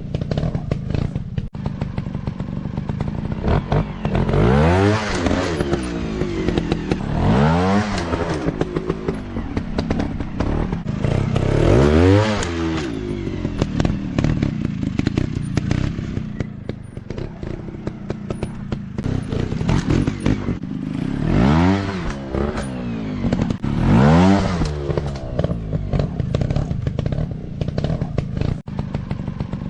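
Off-road dirt bike engine revving in repeated bursts, pitch rising and falling about five times, over a steady running engine, with many short knocks and clatters between.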